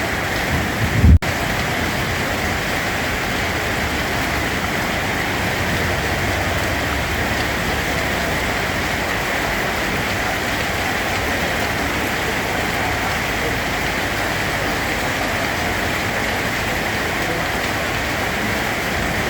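Steady rain falling on a surface, an even hiss of countless drops. About a second in, a short low rumble swells and cuts off with a brief gap in the sound.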